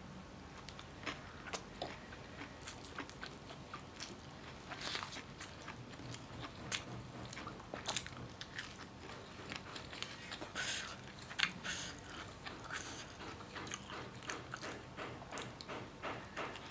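Close-up chewing and biting of crispy fried chicken, with irregular crunches, some sharp and loud.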